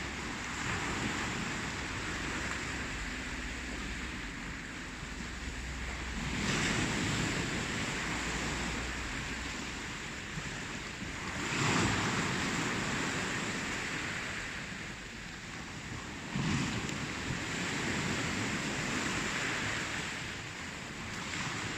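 Ocean surf: waves breaking in a continuous wash, with three louder surges about five seconds apart, each swelling suddenly and then fading back.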